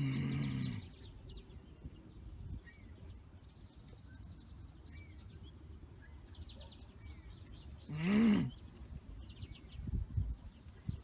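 Backyard songbirds chirping, trilling and giving short falling calls. Two loud, short harsh cries break in, one at the start and one about eight seconds in, and there is a low thump near the end.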